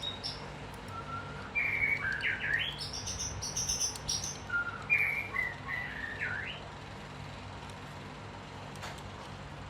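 A bird chirping: two short phrases of whistled notes that slide up and down, over a steady low hum.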